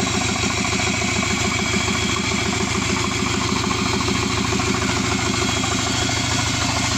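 Subaru EJ255 2.5-litre turbocharged flat-four engine idling steadily out of the car, with an even pulse. A vacuum leak where it was sucking air has been fixed, and it runs nice and quiet.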